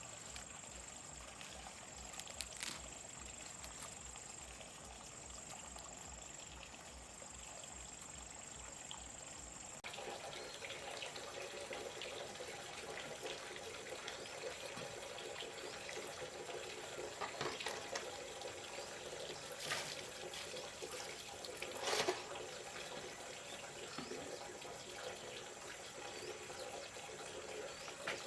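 Water running and trickling from a bamboo water pipe, with a few sharp knocks; the sound changes abruptly about ten seconds in, and a steady high whine runs under the first part.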